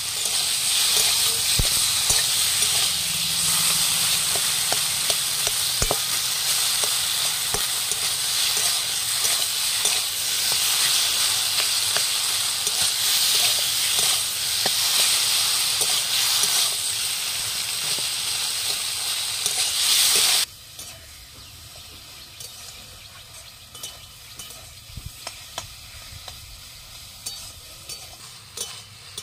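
Taro leaves and pieces of fried hilsa head sizzling in oil in a wok while a metal spatula stirs them. The hiss cuts off suddenly about two-thirds of the way through, leaving quieter clicks and scrapes of the spatula against the pan.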